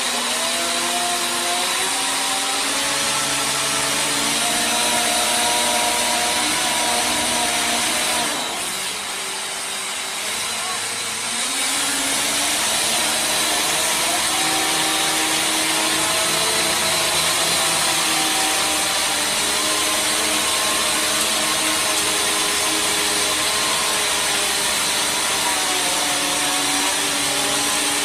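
Loud, steady machinery noise with several whining tones that slowly shift in pitch, dropping back briefly about eight seconds in before picking up again.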